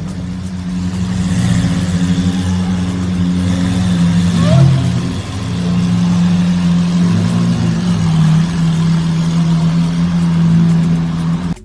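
Car engine with a loud exhaust, running at a fairly steady speed as a low drone. The pitch shifts briefly twice, then the sound cuts off suddenly near the end.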